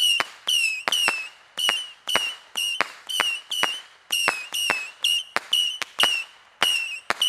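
Whistling missile firework battery firing shot after shot, about two a second. Each shot is a sharp pop followed by a short, high whistle that dips slightly in pitch.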